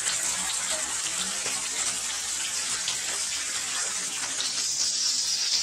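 Heavy rain falling steadily: an even hiss of drops with a fine patter throughout.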